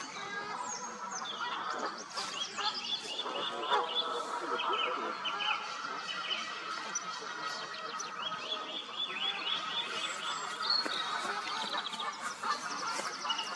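Park birds calling together: waterbirds and songbirds in a busy, continuous mix of short calls and fast trills.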